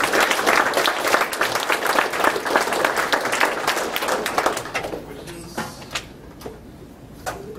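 Audience applauding: a dense patter of many hands clapping that dies away after about five seconds, with a few last scattered claps.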